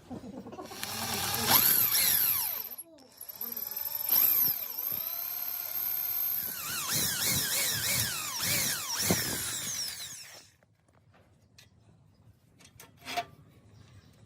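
A handheld power tool running, its pitch swooping up and down as it speeds up, slows and bites, with a brief stop about three seconds in. It cuts off about ten seconds in, and a single knock follows near the end.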